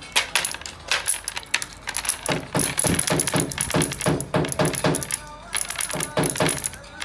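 Rapid metallic tapping from a hand tool at work, in runs of about four or five strikes a second with short pauses between them: the clatter of the craft as the lettering is worked.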